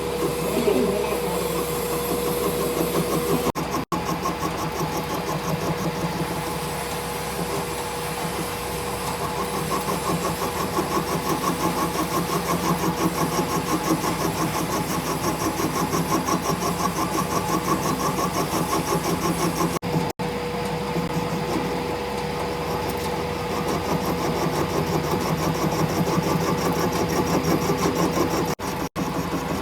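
A machine running steadily with a constant hum and a fast, even pulsing, cut off three times for a split second.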